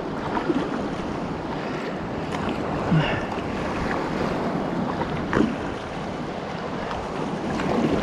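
Wind buffeting the microphone over water washing around a kayak in rolling waves, with a few short splashes along the way.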